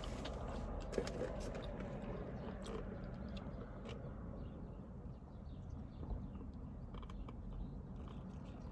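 Chewing and small mouth clicks from someone eating a cheeseburger and fries, with a sharp click about a second in, over a steady low outdoor rumble.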